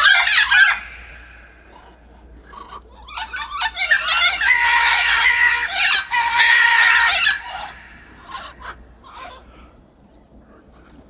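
Macaws calling with harsh, raucous squawks: a burst at the start, then a long stretch of overlapping calls from about three seconds in, thinning to a few scattered calls near the end.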